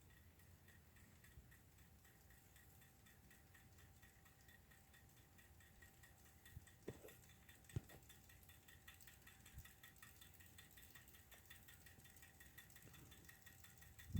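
Near silence: a Hampton Bay Huntington III ceiling fan running on low speed, with only a faint steady hum and a few light clicks a little past halfway. The fan has a failing capacitor.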